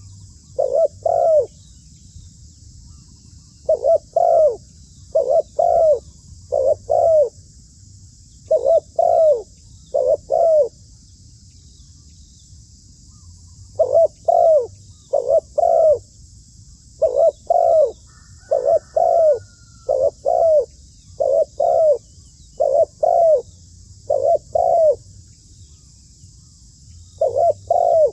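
Zebra dove calling: short staccato cooing notes in quick pairs and runs, with pauses of a second or more between groups.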